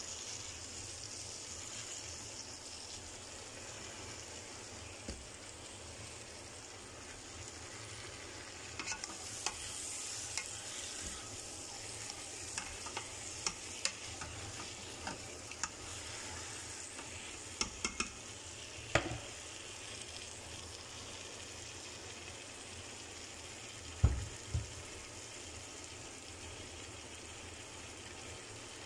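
Chicken pieces frying with tomato and onion in oil in a pot, a steady sizzle throughout. A spoon stirring scrapes and clicks against the pot in the middle stretch, and there are a couple of louder knocks near the end.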